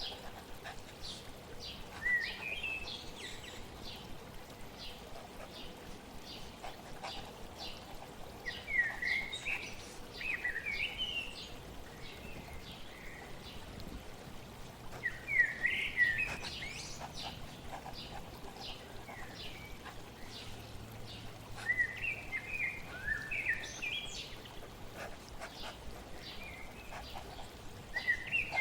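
A songbird singing short warbled phrases, about five of them a few seconds apart, over the steady hiss of flowing water.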